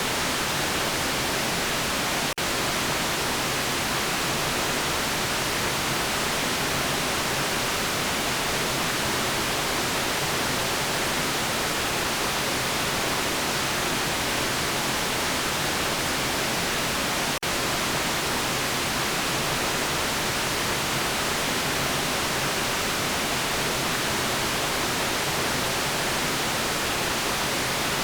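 Steady electronically generated white noise, an even hiss across all pitches. It dips very briefly twice, about two seconds in and again about seventeen seconds in.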